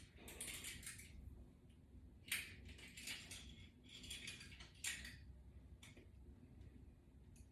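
Faint handling noises of exercise gear: scattered small clicks, clinks and rustling scrapes of the resistance band and latch bar hardware being handled. The sharpest click comes a little over two seconds in, and another near five seconds.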